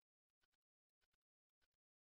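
Near silence, with very faint short clicks, mostly in pairs, recurring about every half second.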